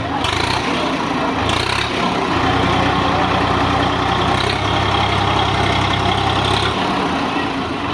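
Tractor diesel engine running. Its low, steady note grows stronger about two seconds in and eases off near the end.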